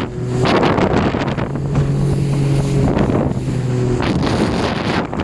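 Wind buffeting the microphone in gusts over the steady hum of a boat's engine; the hum fades out about four seconds in.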